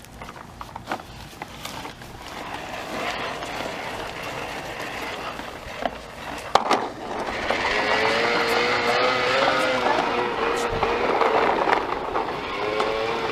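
Plastic toy push lawn mower rolling over pavement with a rough rattle and a few sharp clicks. About seven seconds in, a louder wavering pitched hum joins it.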